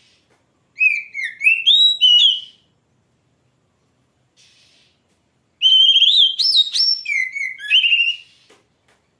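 Oriental magpie-robin (kacer) singing: two loud phrases of varied whistled notes that slide up and down, the first about a second in and the second, a little longer, past the middle.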